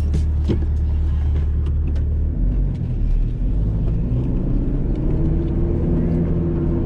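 1993 Mitsubishi Delica L300's turbo diesel engine pulling in four-wheel-drive low range through soft sand, a steady low drone whose pitch shifts a little over two seconds in, with a higher note joining about five seconds in. A few knocks sound near the start.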